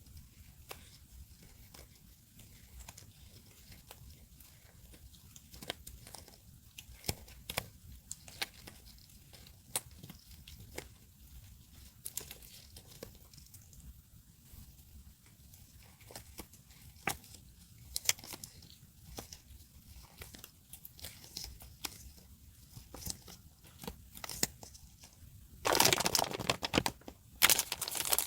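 Paper and stickers being handled for journaling: scattered small crinkles and taps, then near the end a loud tear of paper or tape lasting about a second and a half, a short pause, and another tear.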